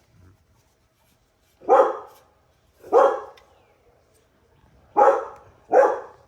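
A dog barking, four single barks spaced one to two seconds apart.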